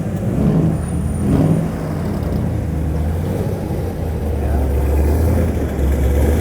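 Classic cars driving past with a steady, deep engine rumble.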